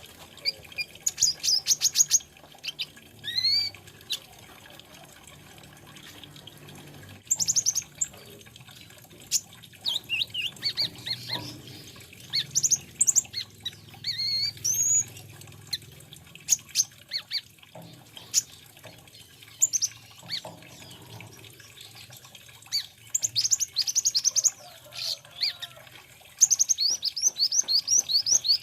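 Sunbird singing: phrases of quick high chirps, rising sweeps and fast trills, with short pauses between them.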